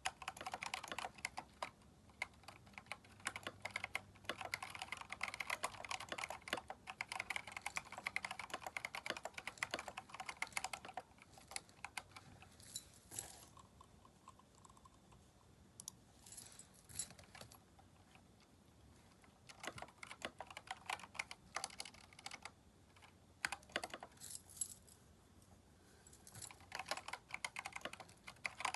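Typing on a Keychron K4 mechanical keyboard fitted with replacement keycaps. Fast runs of keystrokes slow to scattered single key presses for about fifteen seconds in the middle, then quick typing resumes near the end.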